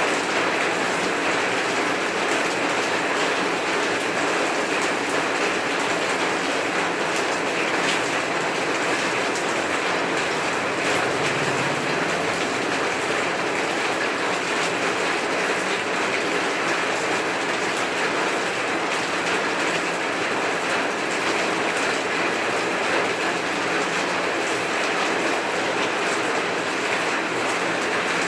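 Heavy rain falling steadily, with scattered drops ticking among the even hiss.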